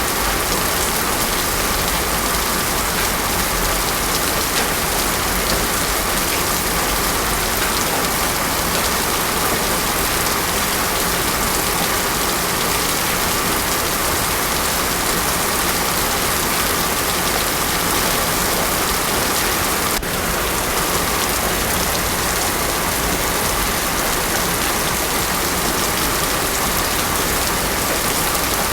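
Heavy rain pouring steadily onto a paved road: a dense, even hiss with no thunder.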